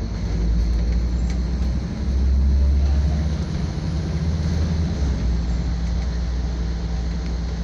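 Scania double-decker bus running along the road, its engine and drivetrain a steady low drone with road noise, growing louder and deeper for a few seconds in the middle as the engine pulls harder.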